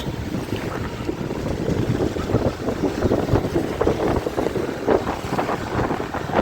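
Wind buffeting the microphone on a moving motorcycle: a loud, rough, uneven rush concentrated in the low end.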